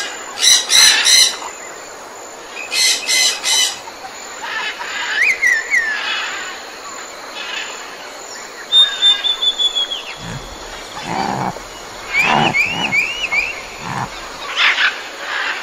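Wild birds calling outdoors: bursts of rapid chattering calls, then a brief held whistle and a run of short arching chirps.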